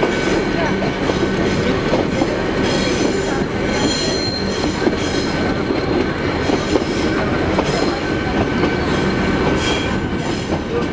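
Nilgiri Mountain Railway metre-gauge train running, heard from an open carriage window: a steady rumble of wheels on rails, with high-pitched wheel squeal that comes and goes as the train rounds curves.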